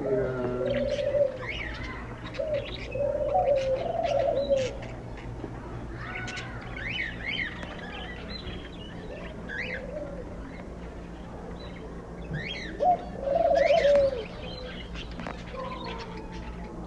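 Doves cooing in repeated low phrases. A smaller bird chirps with short, sharp, up-and-down notes, most in the middle stretch.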